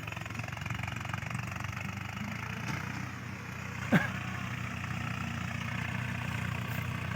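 Tractor engine running steadily, driving a field mulcher, with a short sharp sound about four seconds in.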